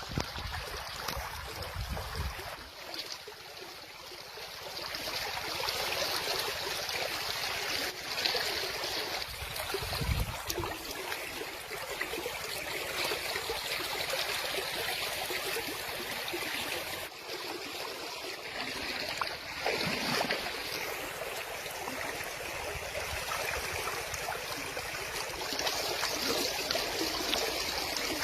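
River water flowing over stones, a steady rushing with some trickling, with brief low rumbles near the start and about ten seconds in.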